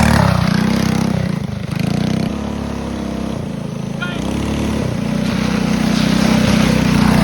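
Small mini bike engine running, easing off about a second in and building revs again over the last few seconds.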